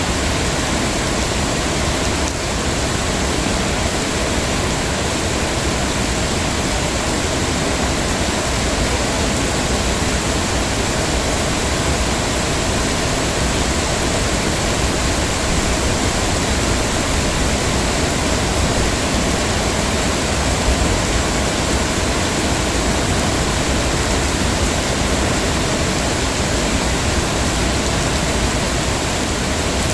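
Heavy rain falling steadily, a dense, even hiss that does not change over the whole stretch.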